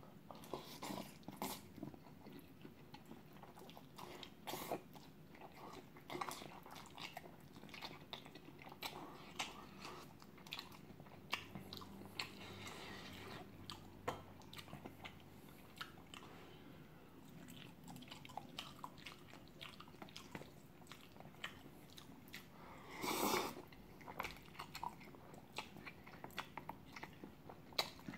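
Close-up chewing and biting of chewy jjolmyeon noodles and pan-fried Spam, with many small wet mouth clicks. A louder breathy burst comes about 23 seconds in.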